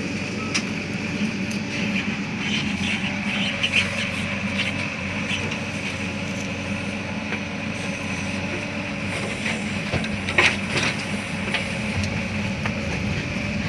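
Diesel engines of a JCB backhoe loader and a farm tractor running steadily, with a few sharp metallic clanks from the loading work. The loudest clank comes about ten and a half seconds in.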